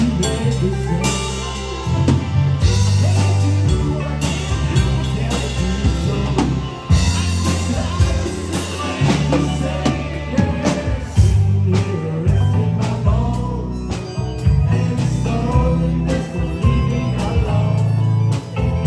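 Live band playing a song with drum kit, guitar and a strong bass line.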